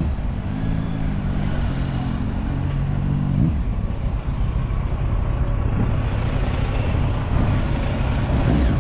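A road vehicle's engine running close by, its pitch climbing briefly about three and a half seconds in, over a steady low rumble of traffic.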